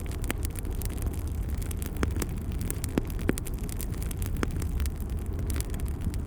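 Wood fire in a fireplace crackling: a steady low rumble of flames with frequent sharp pops and snaps, a few louder ones among them.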